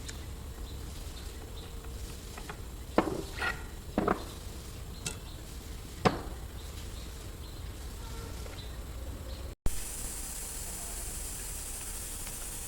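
A few sharp knocks and clinks, the loudest about three, four and six seconds in, over a steady background hiss. After a brief dropout near the end, the hiss turns brighter.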